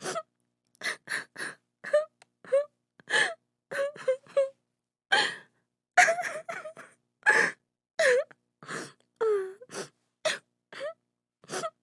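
A woman crying: quick sobbing gasps broken up by short, wavering cries, with a few longer drawn-out wails in the second half.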